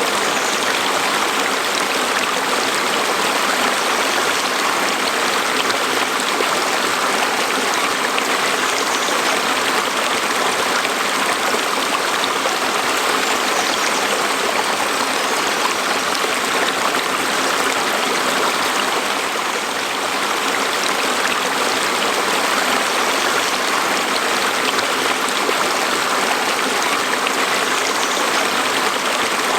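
Stream of water flowing over rocks: a steady, even rush and babble.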